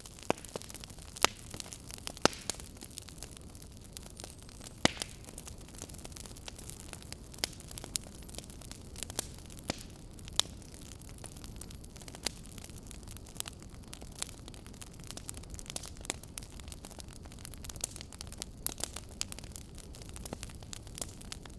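Wood fire crackling in a fireplace: irregular sharp pops and snaps over a steady low hiss of burning, with a few louder pops about one, two and five seconds in.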